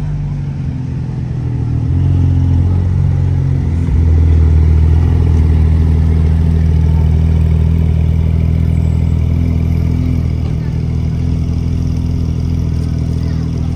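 A vehicle engine, most likely a car, running with a steady low rumble. It steps up in loudness about two seconds in and again about four seconds in, then holds.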